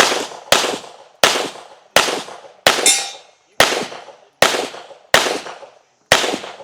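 A pistol firing about nine shots at a steady pace, roughly 0.7 s apart, during a timed competition stage run. About three seconds in there is a brief metallic ring, fitting a steel target being hit.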